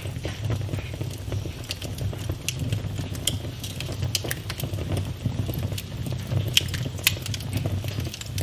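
Wood fire burning in a fireplace: a steady low rumble of the flames with scattered sharp crackles and pops, two of them louder, about six and a half and seven seconds in.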